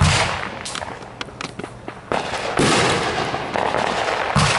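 Consumer aerial fireworks bursting: a heavy boom right at the start and another just before the end, with rapid crackling and popping between.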